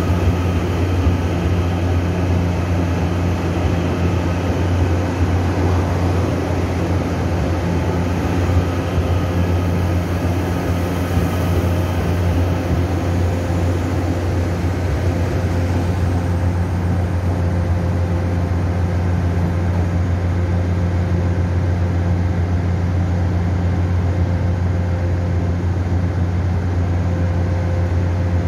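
Taiwan Railway express electric multiple unit running past the platform and moving away, its rushing running noise thinning out about halfway through over a steady low hum.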